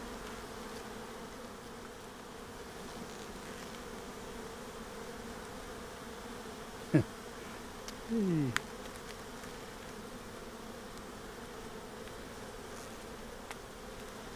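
Honeybees humming steadily around an open hive. About halfway through, two louder buzzes drop sharply in pitch, as single bees fly close past.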